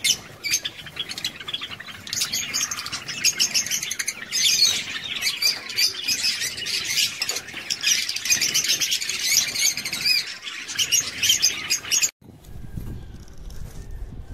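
A flock of Java sparrows chirping and twittering in a dense, continuous stream of calls, cutting off abruptly about twelve seconds in; a quieter low rumble follows.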